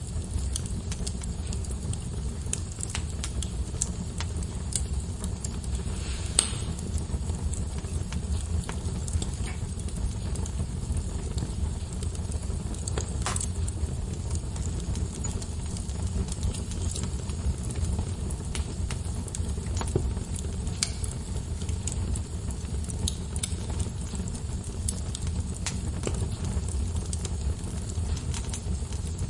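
Wood fire burning in a fireplace: logs crackling with scattered small snaps and a couple of louder pops over a steady low rumble of the flames.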